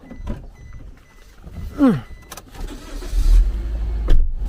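A car's engine starting up and running with a steady deep rumble from about three seconds in. Before that there is a short falling call about two seconds in and a sharp thud.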